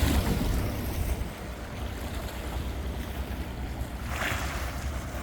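Wind rumbling on the microphone over a steady outdoor hiss, with a brief louder gust of hiss about four seconds in.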